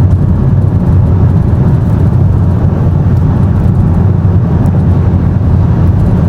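Steady road noise inside a moving car's cabin at highway speed, around 100 km/h: a loud, even low rumble of tyres and engine with a hiss on top, unchanging throughout.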